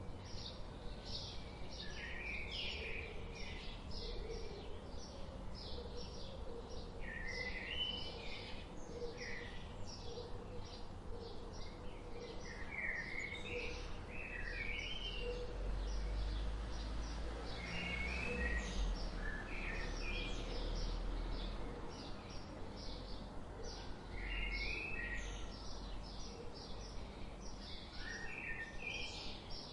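Birds chirping: a steady stream of short, rapid high chirps, with a warbled song phrase recurring every few seconds. A low rumble underneath grows louder for several seconds in the middle.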